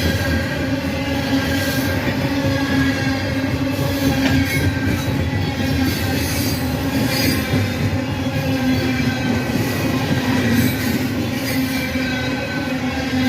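Train cars rolling past close by: a steady rumble of wheels on the rails, with a thin squeal of wheel flanges held throughout.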